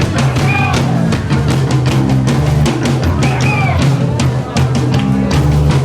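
Loud live rock music: a band playing with a driving drum kit, bass and electric guitar, with evenly spaced drum hits keeping a steady beat.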